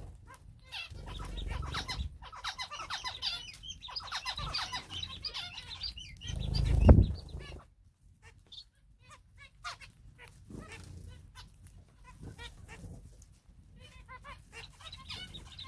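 Small aviary birds, finches and canaries, chirping and calling busily in many short notes, with scattered clicks. A loud low thud comes about seven seconds in.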